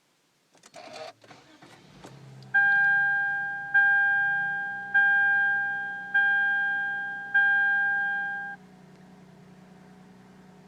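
2012 Lexus IS 250's 2.5-litre V6 starting by push button about two seconds in, then idling steadily. Over the idle, the car's warning chime rings five times, about a second and a quarter apart, each ring fading, then stops.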